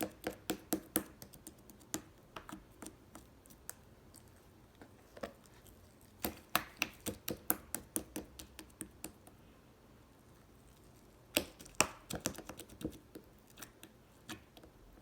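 Soft slime being pressed and squeezed by hand, giving runs of quick sharp clicks and pops in several bursts with quieter pauses between.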